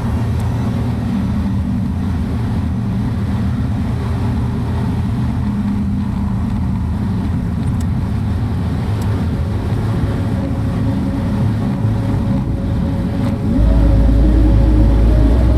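Daihatsu mini truck running along the road, a steady engine and road drone. Near the end a deeper, louder low rumble comes in suddenly and stays.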